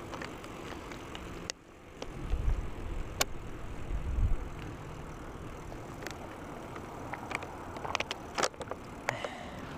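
Water bottle being taken out and handled on a moving bicycle: scattered sharp clicks and a couple of low bumps over steady riding noise.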